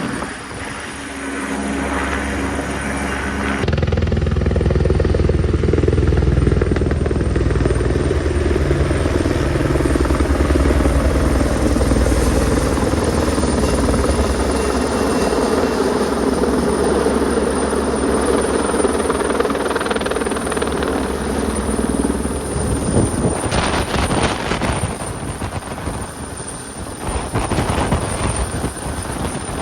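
Twin Squirrel twin-turbine helicopter working close by on a load lift, its rotor and turbines running loud and steady with a fast pulsing rotor beat. The sound jumps up about four seconds in and turns rougher and gustier over the last several seconds.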